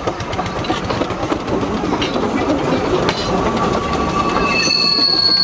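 Narrow-gauge train running close by, wheels clattering over the rail joints with a rumble that grows louder. Near the end the wheels start a high, steady squeal.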